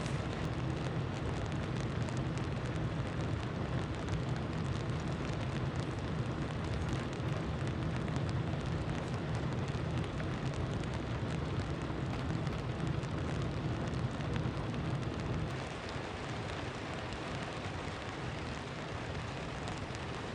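Steady rain falling, with scattered drop ticks over an even hiss. A low hum underneath stops about three quarters of the way through, and the sound gets a little quieter.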